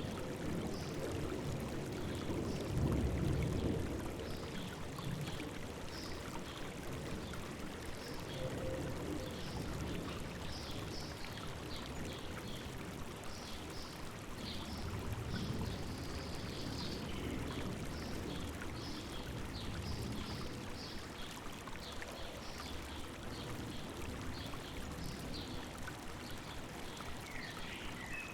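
River water flowing and babbling, with birds chirping now and then over it; the water swells louder about three seconds in.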